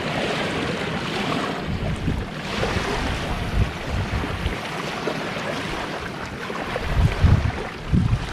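Sea waves washing on a beach, with wind buffeting the microphone in low rumbling gusts, strongest near the end.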